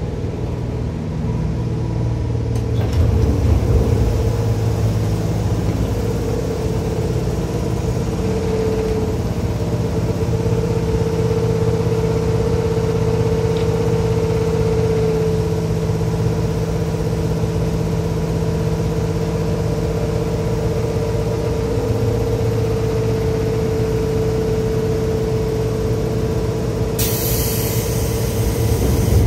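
Seibu 2000 series electric train running at speed, heard from inside the car: a steady rumble of wheels on rail with a few steady motor hum tones over it. Near the end a brief wash of hiss rises over it.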